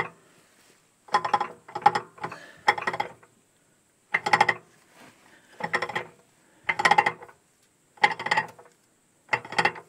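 Gears in a tractor's power take-off drive, turned by hand, clattering in short bursts about every second or so, some doubled, as they take up heavy play. The owner suspects the PTO drive is broken, with a tooth gone and the gear slipping.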